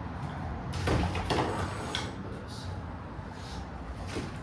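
Irregular knocks, scrapes and shuffling of a person clambering up, with a cluster of louder knocks about a second in and softer rustling after.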